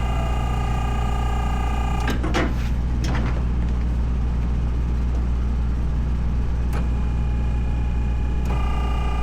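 A running engine's steady low rumble with a whine over it that stops about two seconds in and comes back near the end, and a few sharp knocks in between.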